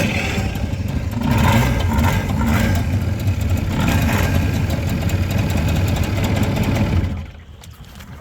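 Boat outboard motor running hard, a steady loud drone, then throttled back sharply about seven seconds in.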